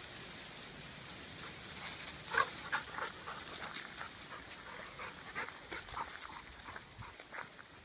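A dog panting in quick, irregular breaths, a few to the second.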